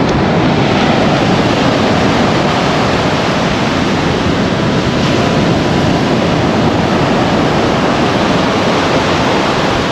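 Ocean surf breaking steadily on a beach, with wind buffeting the microphone.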